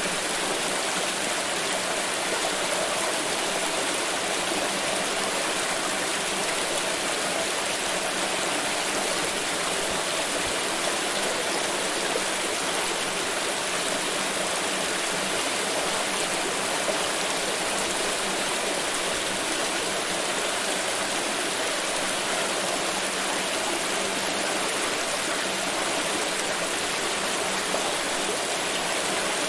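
Water pouring in a steady, unbroken stream, an even splashing hiss with no pauses or changes.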